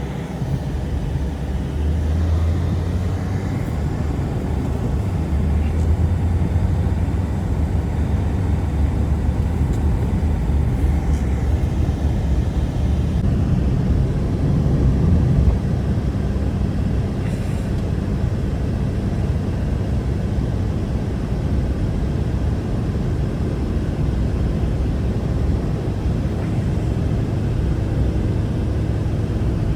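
Blizzard wind blowing steadily, a deep, rumbling noise with slow swells.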